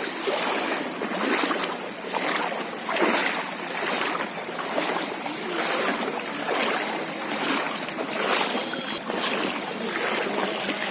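Floodwater sloshing and splashing, swelling in irregular surges about once a second.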